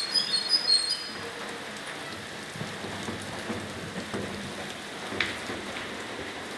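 Steady rain falling on wet plastic stretch-wrap. A few short, high squeaks sound in the first second, and there is one sharp click about five seconds in.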